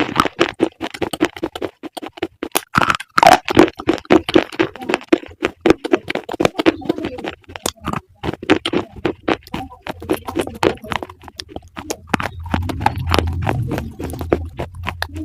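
Close-miked crunching of crisp food being bitten and chewed, a dense run of sharp cracks and crackles. A steady low hum joins in the last few seconds.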